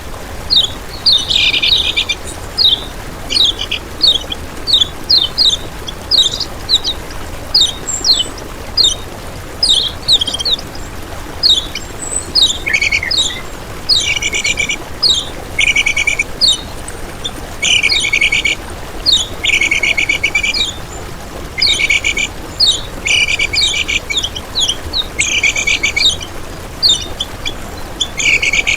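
Kecial kuning songbird singing without pause: a rapid run of sharp, high down-slurred chirps mixed with short buzzy trilled phrases, one every second or so.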